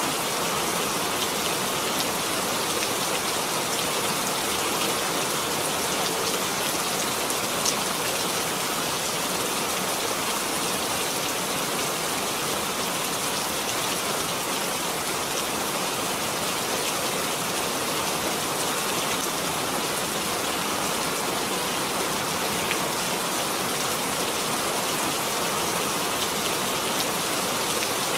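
Steady rain falling and pattering on surfaces, an even hiss with the odd louder drop tick.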